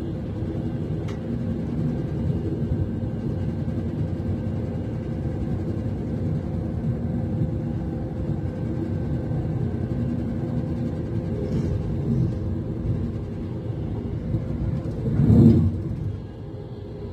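Steady low rumble inside the carriage of a Class 390 Pendolino electric train as it runs along, with a few steady hums over it. About fifteen seconds in comes a brief louder rush lasting about a second, the loudest moment, before the rumble settles a little quieter.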